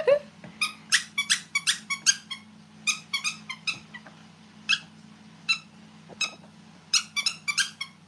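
A dog's squeaky toy squeaked over and over as the dog chews it: short, high squeaks in quick clusters of two to five, with pauses between.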